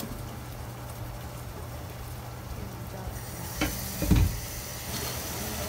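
Tofu hamburger patties sizzling in hot non-stick frying pans. About three seconds in a fresh patty is laid into a pan and the sizzle grows louder, with a soft knock and then a dull thump as it is pressed down.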